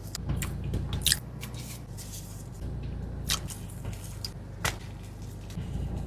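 A person eating paratha and fried fish close to the microphone: chewing and tearing food, with a few sharp mouth smacks or clicks every second or so over a low steady hum.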